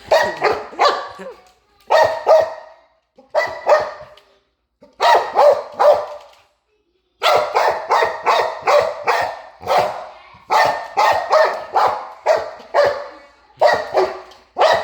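Dog barking repeatedly at a robot vacuum cleaner: short bursts of two or three loud barks, a brief pause, then a long fast run of barks about seven seconds in.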